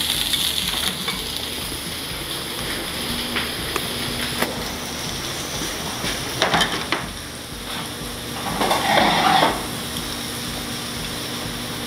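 Fried rice sizzling in a hot pan with a steady hiss over a low hum, with a few sharp clicks and knocks of utensils and dishes, and a louder clattering burst about nine seconds in.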